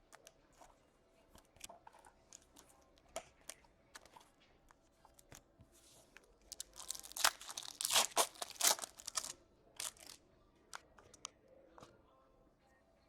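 A trading card pack wrapper being torn open and crinkled, loudest for about three seconds in the middle. Light clicks and rustles from cards being handled come before and after.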